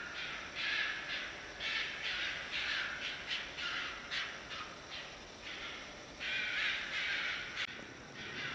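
Red fox calling in the mating season: a quick, irregular series of hoarse, rasping screams, with a longer call about six seconds in.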